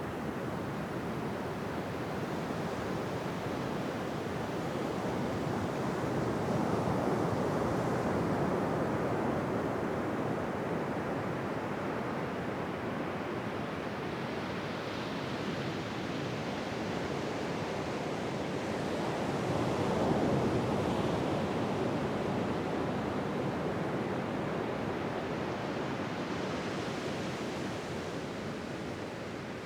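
Ocean surf: waves breaking and washing in as a steady rush, swelling louder twice, about a quarter of the way in and again about two-thirds of the way in.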